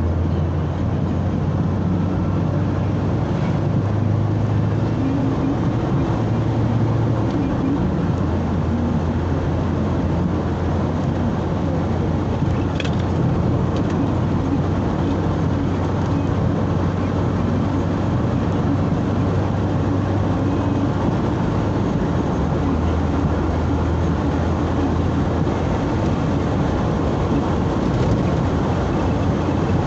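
A car driving along a road at steady speed: a steady low engine hum with tyre and wind noise.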